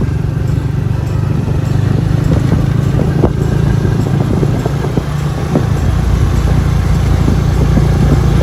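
Motorcycle ride: a heavy, steady rumble of wind buffeting the microphone over the engine running at cruising speed.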